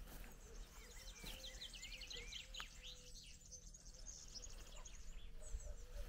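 Faint birdsong outdoors: small birds chirping, with a quick run of high notes in the first half, over a faint steady background hush.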